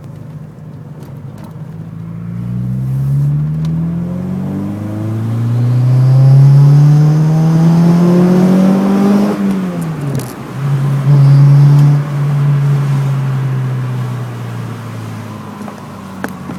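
Renault Clio engine accelerating: its pitch climbs in two pulls, drops off sharply about ten seconds in, holds briefly, then winds down. On acceleration the owner hears an unexplained "sucking" noise from the car.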